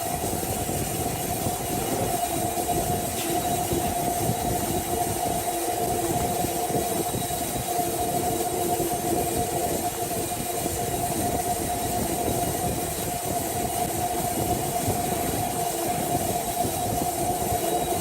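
Sawmill saw running steadily: a constant high whine over a dense mechanical rumble.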